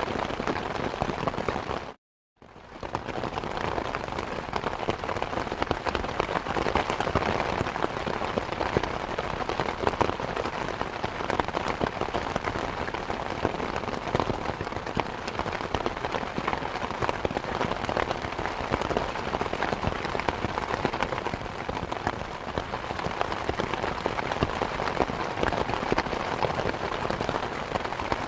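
Steady, heavy rain falling, a dense hiss of many drops. About two seconds in it cuts out to silence for a moment, then fades back in.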